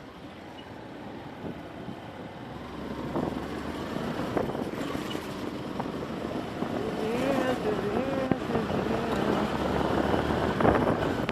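Street noise growing steadily louder, as of a motor vehicle drawing near, with a brief voice calling out about two-thirds of the way in.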